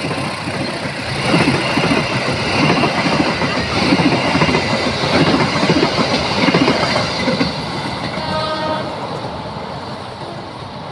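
Passenger coaches of the KAI Putri Deli train rolling past on steel rails, the wheels clacking over the rail joints. The sound is loudest about halfway through and fades as the last coach moves away.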